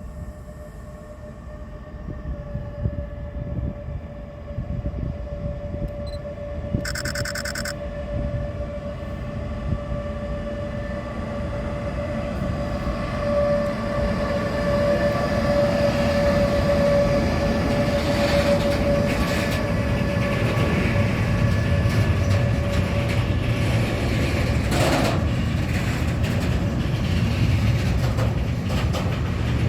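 A train approaching and passing close by, growing steadily louder over the first half and staying loud, with a steady pitched whine throughout. A brief high-pitched sound comes about seven seconds in.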